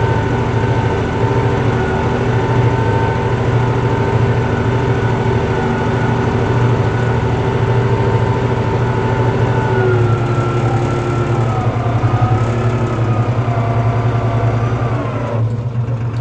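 Tractor diesel engine running steadily, pulling a four-furrow mounted plough. Its note dips slightly about ten seconds in.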